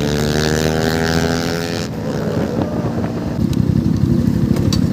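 Motorcycle engine running on the move, with wind on the microphone. About two seconds in, the sound changes abruptly to a lower, rougher, pulsing engine rumble that grows louder toward the end.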